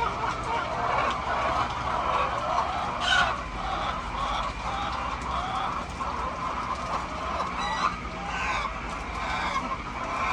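A flock of chickens clucking and calling all at once, many overlapping voices, with a short sharp noise about three seconds in.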